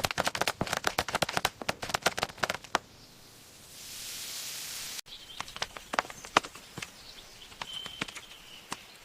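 Quick, irregular taps and knocks, dense for the first few seconds. They break for a couple of seconds of hiss that cuts off suddenly, then return more sparsely with a faint high whistle.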